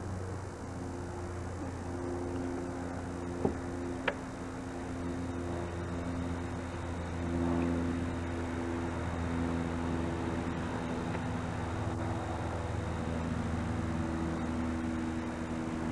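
A steady low motor hum, likely a vehicle engine running, with sustained tones that shift in pitch now and then. Two short sharp clicks come a little over three seconds in, half a second apart.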